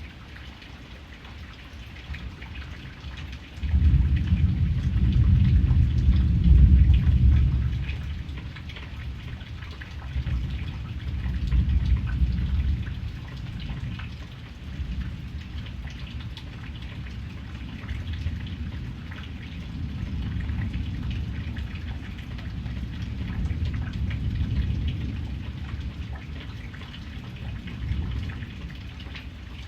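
Steady rain with a pattering of drops, and thunder: a deep rumble comes in suddenly about four seconds in, is loudest for the next few seconds, then rolls on in weaker swells.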